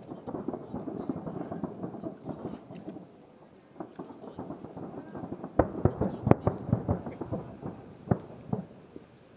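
Aerial firework shells bursting in a rapid volley of booms and crackles that dies down about three seconds in. A second volley of sharp bangs starts about five and a half seconds in, is loudest around six seconds, and tapers off near the end.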